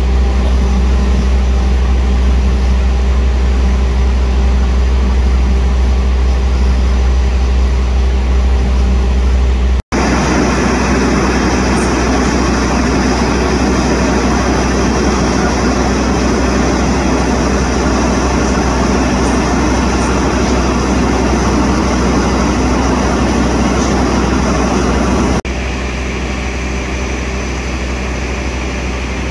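Diesel locomotive and train noise at a station: a steady low engine drone, then a louder rumble from about ten seconds in as a CC 206 diesel-electric locomotive approaches the platform. It drops suddenly to a quieter steady hum near the end.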